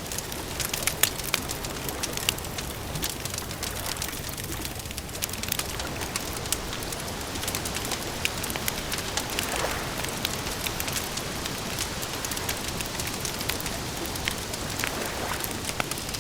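Wood fire crackling: a steady hiss dotted with many sharp pops and snaps.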